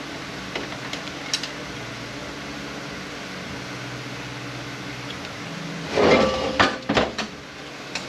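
Metal clanking from an automatic transmission being taken apart by hand: a few light taps, then about six seconds in a quick cluster of loud metal knocks with brief ringing. A steady shop hum runs underneath.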